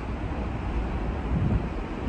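Steady low rumble of a train approaching from a distance through the station.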